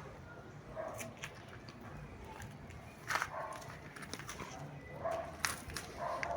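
A pet animal's short calls, about four of them spaced a second or two apart, mixed with sharp clicks and taps.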